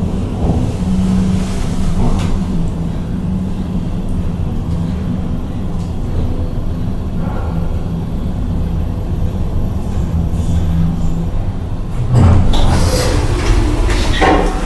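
Steady low hum of a KONE MiniSpace traction elevator in operation; about twelve seconds in, a louder rattling noise with clicks sets in.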